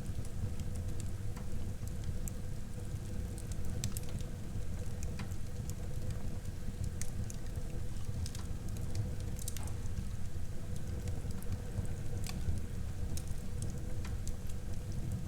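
Wood fire burning in a fireplace: a steady low rumble of flames with frequent small crackles and pops from the burning wood, a few of them sharper than the rest.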